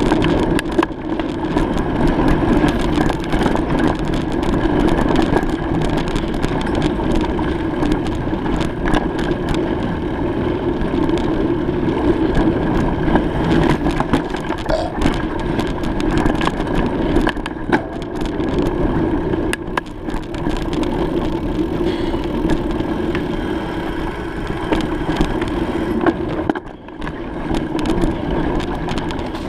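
Steady riding noise from a moving bicycle: wind on the microphone and tyres rolling on the road, with scattered small clicks and a brief lull near the end.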